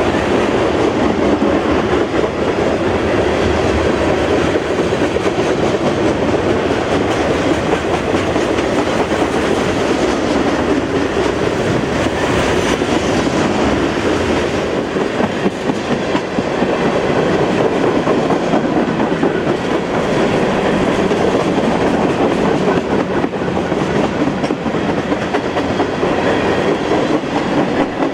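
Train cars rolling past on the CSX main line: a steady, loud noise of wheels on the rails that holds without a break.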